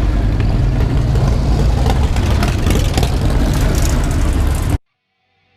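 Motorcycle engines running, a steady loud low rumble that cuts off suddenly near the end.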